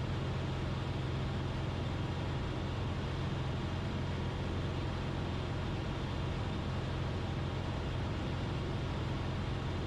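Cessna 172RG's four-cylinder Lycoming O-360 engine and propeller droning steadily in level cruise flight.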